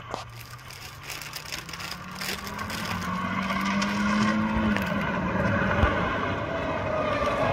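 A car engine accelerating as the car approaches, growing louder. Its note rises steadily in pitch, then drops back just before five seconds in.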